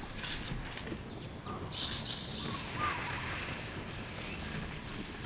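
A few short, high-pitched animal chirps or squeaks, in a brief cluster about two seconds in and once more a second later, over steady outdoor background noise.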